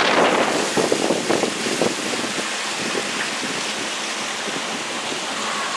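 Tropical-storm wind rushing steadily, with gusts buffeting the microphone in the first two seconds.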